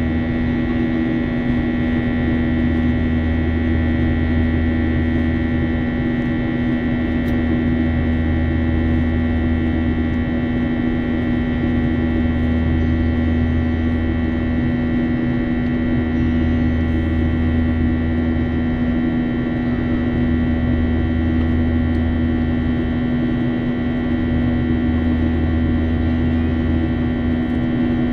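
Jet airliner cabin noise during the climb after takeoff: a steady engine hum and rush of air, with a low drone that swells and fades about every four seconds.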